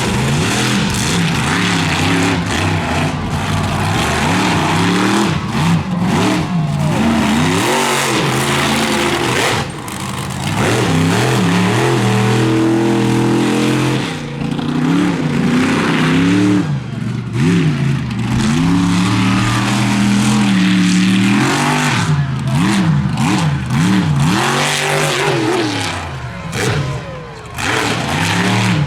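Monster truck engine revving hard, its pitch rising and falling again and again, with brief dips in loudness when the throttle comes off.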